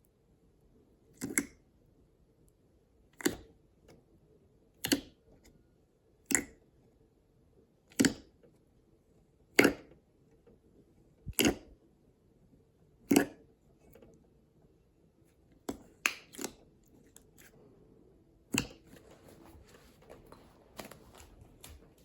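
Slime being pressed and squeezed by hand, giving sharp clicky pops about every one and a half to two seconds, eight in a row. These are followed by a few quicker pops and then a faint, steady crackling.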